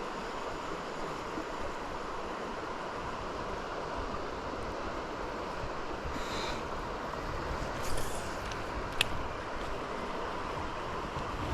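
Steady rush of a waterfall and fast river water, with a single sharp click about nine seconds in.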